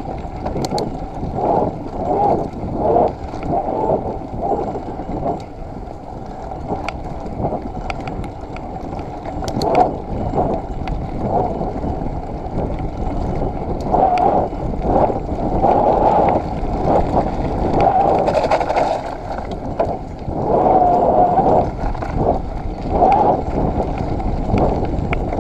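Mountain bike ridden along a wet, muddy forest trail: a continuous rumble of tyres and rattling bike with surges of wind on the microphone, and a few sharp clicks.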